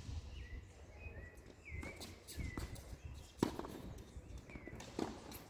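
Tennis balls struck on the court during a rally: three sharp hits about a second and a half apart, with footsteps and a few short high squeaks between them.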